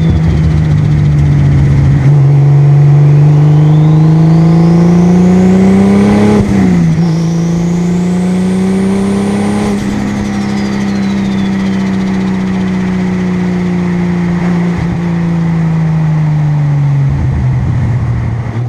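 Single-turbo Toyota Supra's 2JZ inline-six accelerating with a high turbo whistle rising with the revs. About six and a half seconds in the revs drop sharply at a gear change, then climb again and hold; the whistle fades as the driver comes off the throttle, and the engine note falls near the end.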